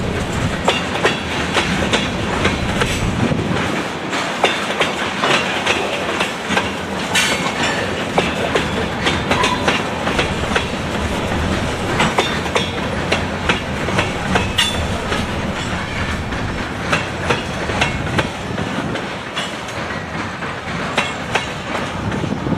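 Covered hopper cars of a freight train rolling through a road crossing: steel wheels clacking and rattling over the rail joints and crossing, with a steady rolling rumble. The last car clears near the end.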